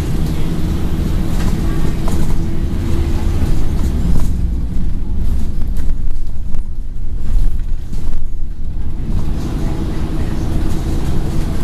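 Scania N113 bus's diesel engine running on the move, heard from inside the bus. About four seconds in, the engine note and the road noise ease off for a few seconds, then the engine pulls again.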